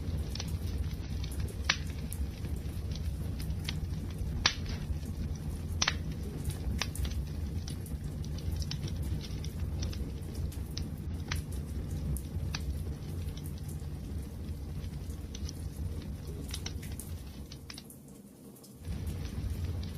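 Wood fire crackling: a steady low rumble of burning with scattered sharp pops and snaps. Near the end the sound fades out and comes back about a second later.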